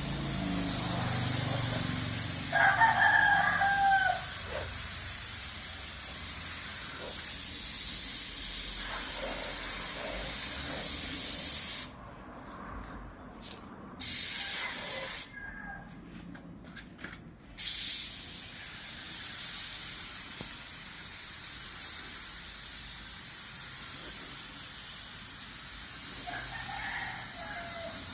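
Paint spray gun hissing steadily as topcoat is sprayed, with the trigger released twice for about two seconds around the middle. A rooster crows loudly about three seconds in and again faintly near the end.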